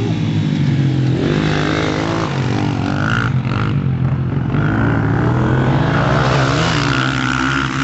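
KTM dirt bike engine running under throttle, revving up and falling back several times as it is ridden.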